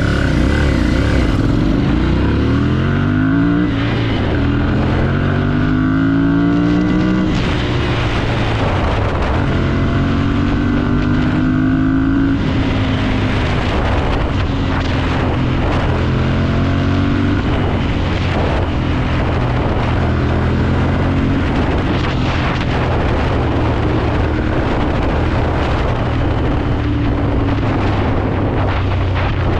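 Ducati Monster 796's air-cooled L-twin engine pulling through the gears: the pitch climbs in rising sweeps, each broken off by a shift, over the first twelve seconds or so. After that it runs at lower, fairly steady revs with small rises and falls.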